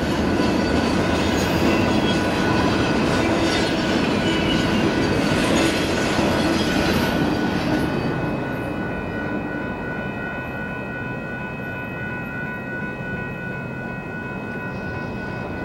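A Union Pacific train rolling past on the main line, wheels running over the rails. It is loud for about the first eight seconds, then drops away, leaving several steady high-pitched ringing tones.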